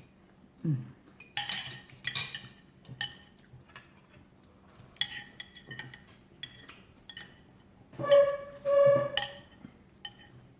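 Cutlery clinking and scraping on plates during a meal, with scattered light chinks. About eight seconds in come two short pitched, ringing sounds, the loudest in the stretch.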